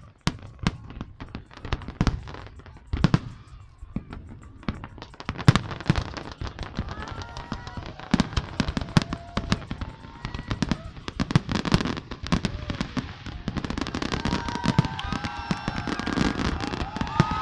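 Fireworks display going off: separate sharp bangs at first, then from about five seconds in a dense run of crackling and popping with frequent louder bangs. Short whistling glides sound over it near the end.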